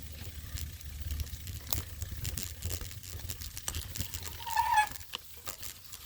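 Mountain bike rolling over rough ground, with a low rumble and many scattered clicks and rattles. About four and a half seconds in, the brakes let out a brief high squeal, a sound the rider calls horrible.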